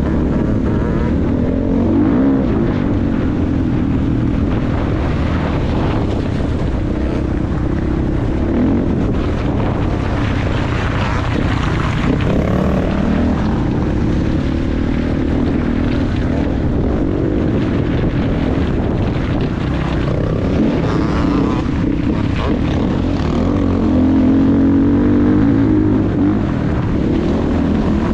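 Motocross bike engine running hard while being ridden around a track, its pitch rising and falling as the rider opens and closes the throttle.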